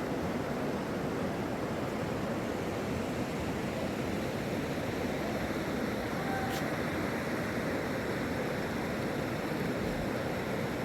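Steady rushing of a flooded river's fast-flowing water, an even unbroken roar, with one faint click about six seconds in.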